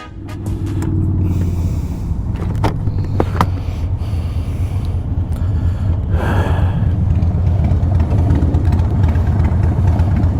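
Motorcycle V-twin engine running steadily, with a couple of short clicks early on.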